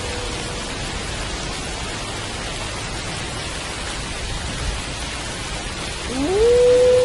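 Steady rain falling, with the end of a wolf howl trailing off at the very start. About six seconds in, a new wolf howl slides upward and then holds one steady pitch.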